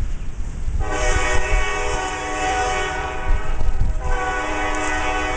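Air horn of a lead F-unit diesel locomotive sounding a long steady blast from about a second in, a brief break, then a second blast near the end, over the low rumble of the passing train.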